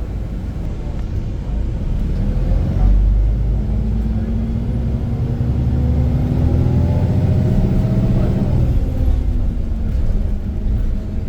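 Iveco Crossway LE Line bus engine pulling hard under kickdown. A deep rumble swells about two seconds in, the engine's pitch climbs steadily for several seconds, then falls away near the end as the load eases.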